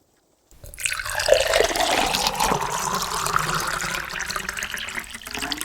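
Diesel fuel pouring into the fuel tank of a Ford 1720 compact tractor, a steady pour that starts about half a second in.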